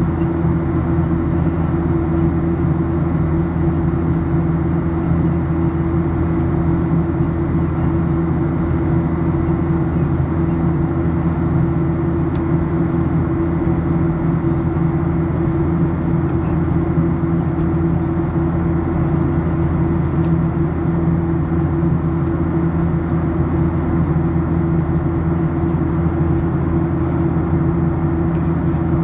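Steady cabin drone of a Boeing 737-800 in flight, its CFM56-7B engines and the airflow over the fuselage heard from a window seat. It is an even, unchanging hum with a low steady tone in it.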